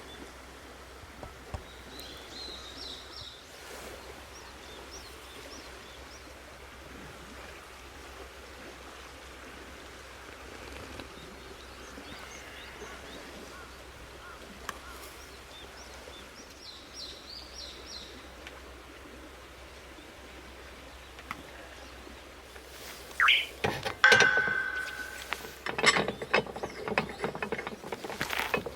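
Quiet outdoor background with a bird calling in short chirps twice, then loud clattering and clinking of hard objects being handled in the last few seconds, with one brief ringing note.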